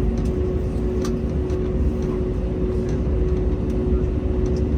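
Steady low rumble of a vehicle interior with a constant droning hum, and a few faint clicks.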